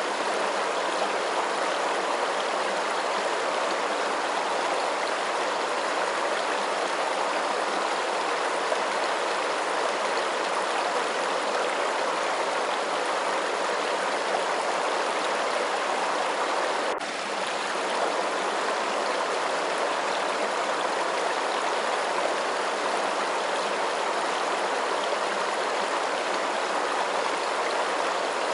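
Steady, continuous running water with an even rushing sound that dips briefly once, about two-thirds of the way through.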